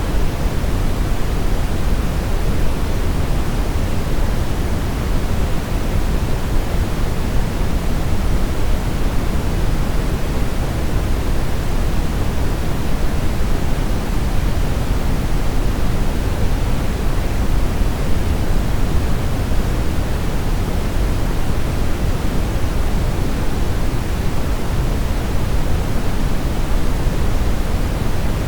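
Brown noise: a steady, even rushing hiss weighted heavily toward the low end.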